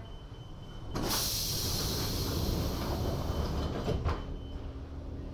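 Lausanne–Ouchy rack-railway car's pneumatic sliding doors working: a loud hiss of compressed air starts suddenly about a second in and lasts about three seconds, ending with a thud about four seconds in. A faint steady high beep sounds through it.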